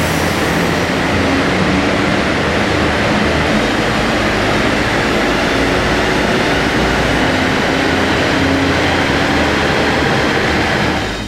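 Alfa Romeo Giulia 2.2 JTD four-cylinder turbo-diesel running under load on a chassis dynamometer during a power run, a loud steady rush of engine, tyre and roller noise. The sound drops away suddenly at the very end as the run finishes.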